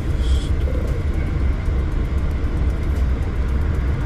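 Steady low rumble of a pickup truck heard from inside the cab.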